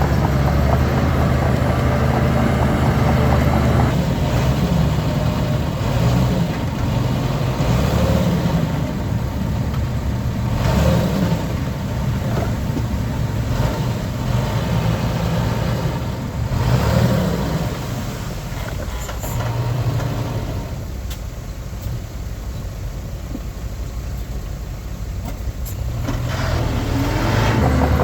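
Diesel engines of heavy earthmoving machinery running. A steady low drone at the start and again near the end, with a rougher middle where the sound swells twice and then eases off for a few seconds.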